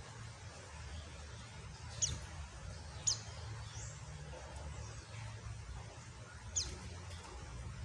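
A pleci (white-eye) giving short, sharp chirps, each falling steeply in pitch: three clear ones, about two, three and six and a half seconds in, with a few fainter between. Behind them runs a steady hiss of rain sound with a low hum.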